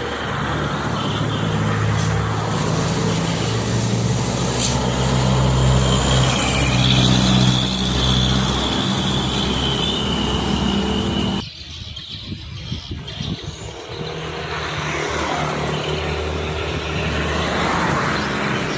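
Truck engine running through a loud 'cung' aftermarket exhaust, a steady low exhaust note with a thin high whine over it for a few seconds midway. About eleven seconds in the sound drops off suddenly, then the engine note builds back a couple of seconds later.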